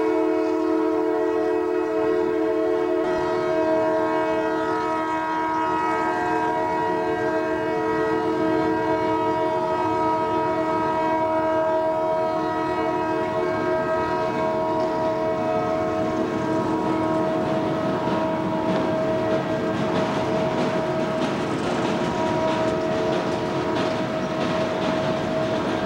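Freight train of autorack cars rolling past, with a steady tone of several pitches at once that fades over the first half, one note lingering to the end. Rhythmic wheel clatter grows louder in the second half.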